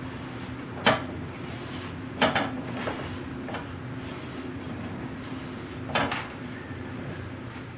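Wood and small tools handled at a workbench: three sharp clacks, the second followed by a short scrape, over a steady low hum.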